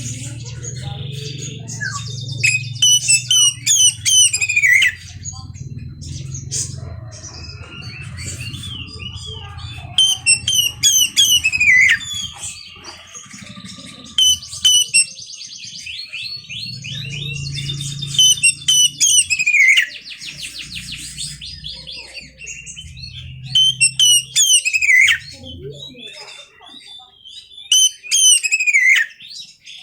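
Oriental magpie-robin (kacer) singing loud phrases of rapid, downward-sweeping whistles and trills, repeated every few seconds, as lure song to set another kacer singing. A steady low hum runs underneath and stops near the end.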